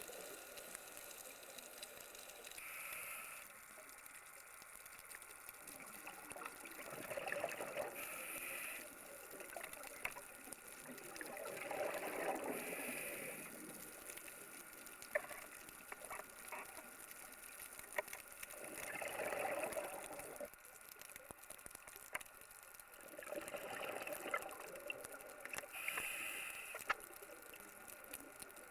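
Scuba diver breathing through a regulator underwater: a short hiss on each inhale, then a gush of exhaled bubbles every five or six seconds, with a few sharp clicks between breaths.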